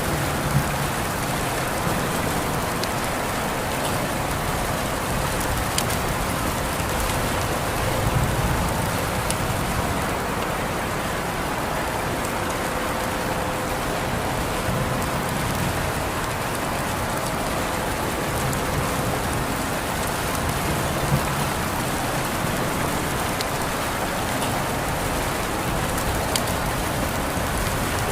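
Steady rain falling, dense and even, with scattered sharper drop hits.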